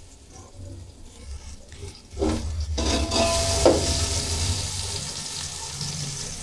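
Spring onion whites and ginger-garlic paste sizzling in hot oil in an aluminium pot. About two seconds in, a metal spoon stirs them, scraping and knocking against the pot, and the sizzle grows louder, then eases toward the end.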